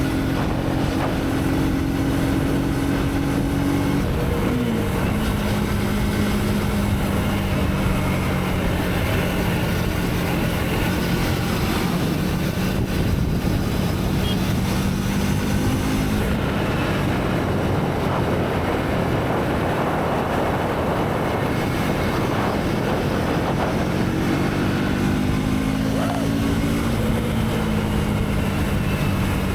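Motorcycle engine running under way, with heavy wind and road noise over it. The engine note drops about four seconds in, is drowned by wind and road noise for several seconds past the middle, then returns, rising and falling in pitch near the end.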